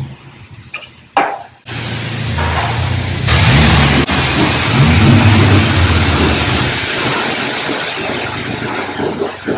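High-pressure water spray from a self-serve car wash wand, rinsing the foam brush: it hisses on suddenly, grows louder about a second later and eases off near the end.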